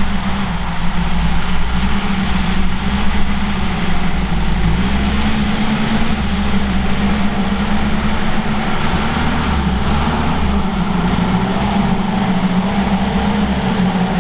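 A UAZ 469 off-roader's engine running steadily, its pitch shifting slightly about four seconds in.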